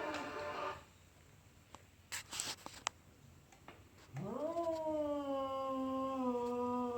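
Domestic cat yowling: one long low yowl ends in the first second, a few brief noisy sounds follow about two seconds in, then a second long yowl starts about four seconds in, rises quickly and holds, drifting slightly lower, until it cuts off at the end. These are drawn-out caterwauls of the kind a cat makes at a rival cat.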